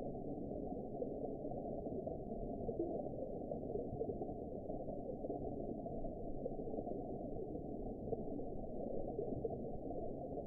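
Underwater ambience: a steady, muffled low rush of water with nothing above the low range and no distinct events.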